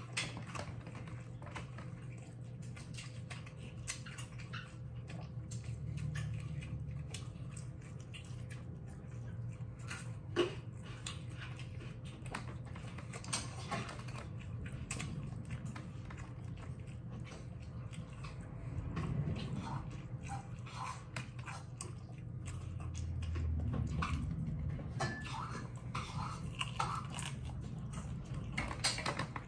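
A person chewing and biting into bread and pork ribs, with scattered small clicks and smacks, over a steady low hum.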